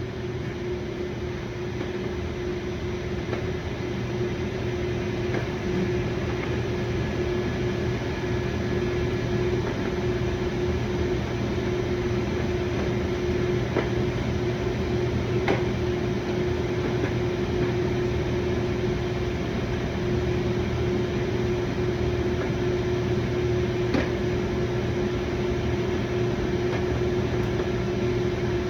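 A steady mechanical hum with one strong even tone, with a few faint single clicks.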